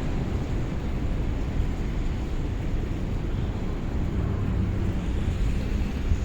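Steady low rumble of blizzard wind buffeting the phone's microphone, mixed with city street traffic.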